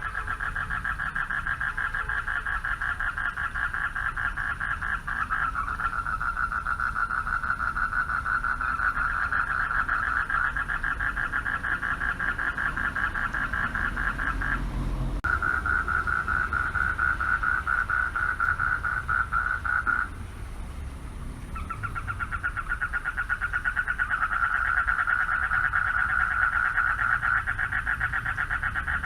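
Chorus of male frogs calling for mates from a pond: a dense, fast-pulsing trill that drops out briefly about halfway and again for a second or so about two-thirds through.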